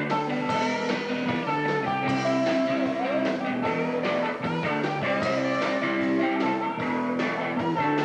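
Rock band music with electric guitar to the fore, playing steadily with a blues-rock feel.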